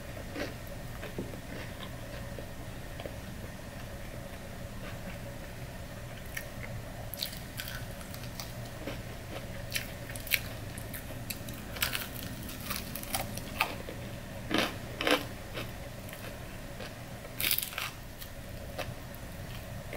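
Close-up chewing and biting of extra-crispy fried chicken wings: scattered crunches and mouth sounds that come thicker in the second half, over a faint steady hum.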